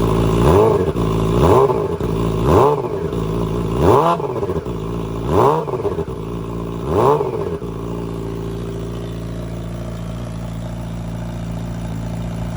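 Yamaha R6 inline-four engine, breathing through an Akrapovic Evo GP exhaust with its baffle in, blipped six times in neutral, each rev rising and falling back, then settling to a steady idle about two thirds of the way through.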